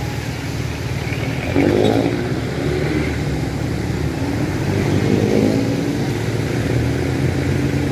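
Street traffic: a steady low engine hum from motor vehicles, with a louder engine passing and changing pitch about one and a half seconds in and another around five seconds in.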